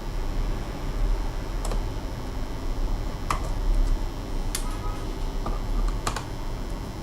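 Plastic clicks and taps from a laptop being handled, a handful of separate sharp clicks a second or so apart, over a steady low hum.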